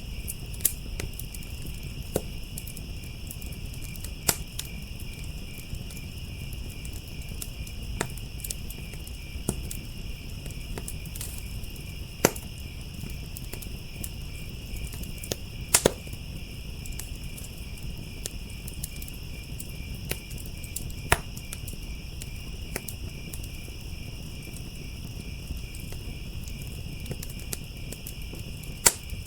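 A wood fire crackling with scattered sharp pops, the loudest about twelve, sixteen, twenty-one and twenty-nine seconds in, over a low steady rumble. Behind it a steady, high chorus of crickets chirping.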